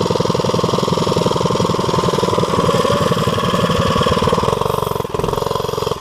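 Small single-cylinder four-stroke mini bike engine running steadily, its rapid even firing pulses continuous, with a brief dip about five seconds in.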